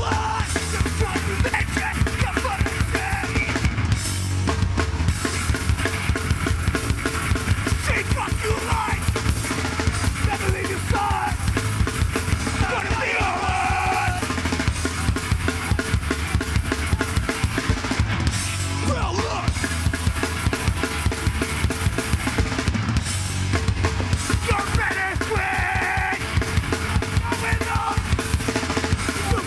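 A live heavy rock band plays a fast instrumental passage driven by the drum kit, with pounding bass drum and snare.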